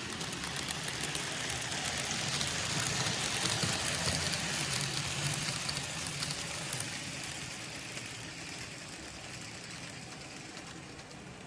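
N gauge model train running on the layout's track: a whirring rumble with rapid fine clicking of wheels over the rail, growing louder as it passes close by and then fading away.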